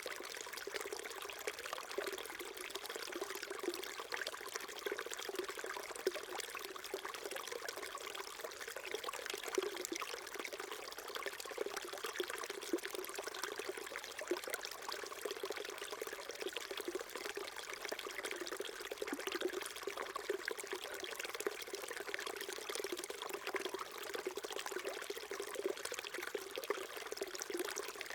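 Small stream trickling and babbling over stones, a steady, even rush of water with fine splashy flicker.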